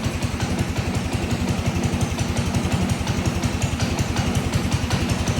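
The snowblower's small engine running just after a start following years of sitting unused, with a rapid, even putter. The owner hears a slight miss in it and is unsure whether that is normal.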